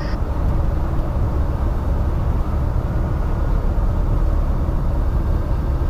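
Steady low drone inside a Cessna 172's cabin during a power-off glide on final approach: the engine idling with the throttle closed, under the rush of air over the airframe.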